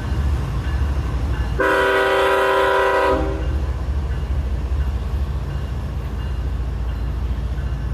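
CSX freight train rumbling steadily as it runs, with one blast of the locomotive's horn, a chord of several notes about a second and a half long, starting about a second and a half in.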